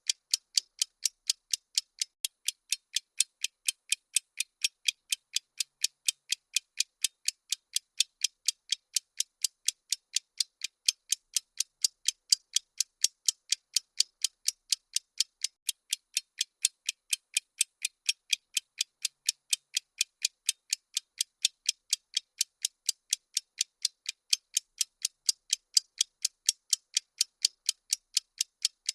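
Bomb-timer ticking sound effect: a steady, fast train of sharp, high clicks, evenly spaced and unbroken.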